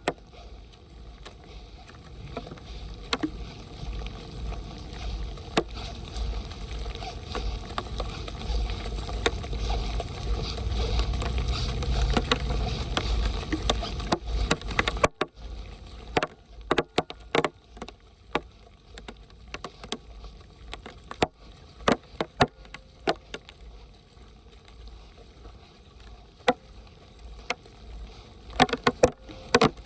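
Water rushing and splashing, building steadily over the first half, then stopping abruptly about halfway through. After that come scattered sharp clicks and splashes.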